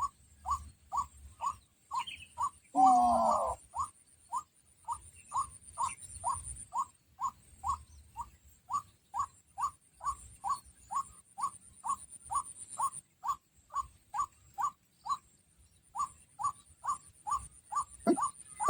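White-breasted waterhen call: a short note repeated steadily about two and a half times a second, with a brief pause near the end. A louder, lower call breaks in about three seconds in.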